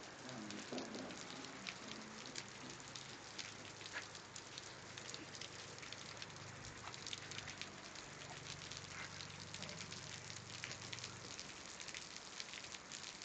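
Steady rain falling and pattering on surfaces, with many separate drop ticks over an even hiss.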